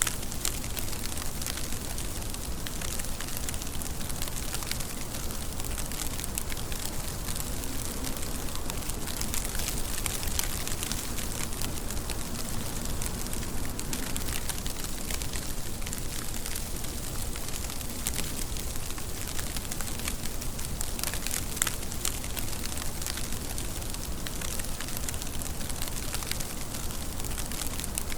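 Steady rain, a constant hiss of rainfall with many separate drop ticks on top.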